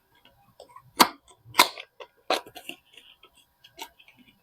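Soap packaging being handled and opened by hand: a few sharp crackles of wrapping, about a second in, again half a second later, and twice more near the end.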